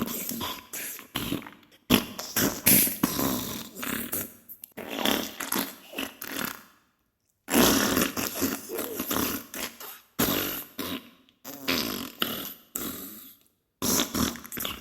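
Diarrhea sound effect: a run of irregular fart sounds in short bursts, breaking off briefly about halfway and again near the end.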